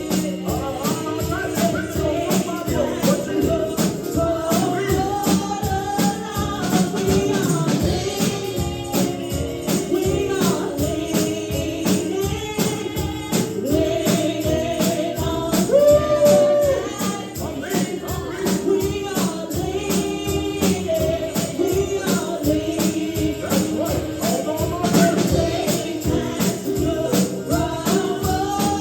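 Gospel praise-and-worship music: voices singing over a tambourine shaken and struck to a fast, steady beat.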